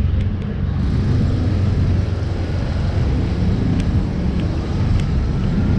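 Steady low rumble of a running vehicle engine, with a few faint clicks over it.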